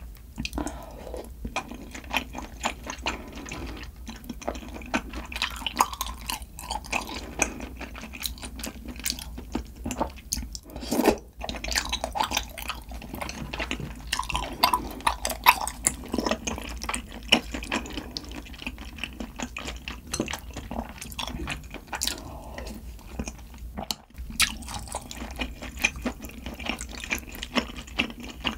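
Close-miked wet eating sounds: chewy fen mo zi (thick sweet-potato starch noodles) being slurped and chewed out of a soupy malatang. There are many small, irregular wet clicks and smacks.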